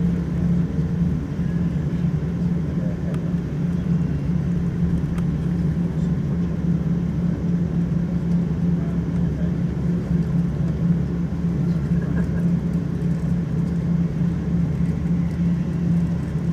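Steady drone of a Boeing 777-200ER's Rolls-Royce Trent engines and airflow heard inside the passenger cabin, with an even low hum and no change in pitch.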